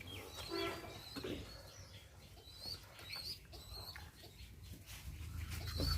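Birds chirping in short, high, wavering calls scattered through, with one lower call just under a second in; a low rumble builds near the end.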